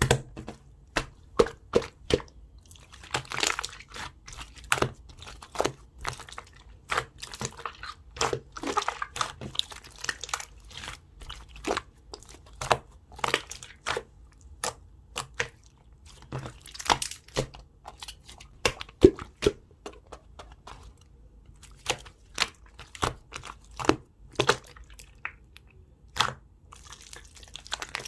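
Jelly slime being squished and pressed by hand, making irregular sharp pops and clicks a few times a second, with short stretches of sticky crackling.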